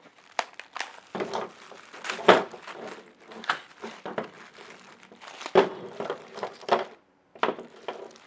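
Packaging crinkling and rustling as hardware parts are rummaged through in search of a carriage bolt, with irregular knocks and clunks, two of them louder, about two and five and a half seconds in.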